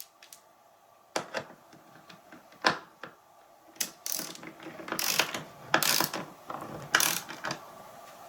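Serrated-head 1/4-20 Torx bolt being tightened into a recliner's back latch: a few separate sharp clicks, then from about halfway a run of clicks roughly once a second with a faint rattle between, the serrated head clicking as it tightens.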